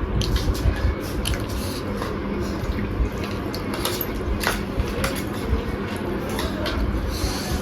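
Close-miked eating: wet chewing and squelching, with irregular sharp clicks and smacks.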